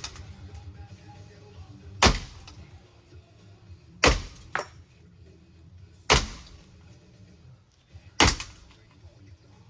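Hard blows striking a ceiling fan being smashed apart, four big hits about two seconds apart. Each hit has a short rattling ring-out, and a lighter knock follows soon after the second. Faint music plays underneath.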